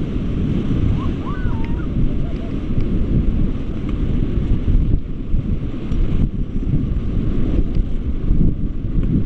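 Wind buffeting the microphone over the steady rush of river water as a raft is paddled downstream.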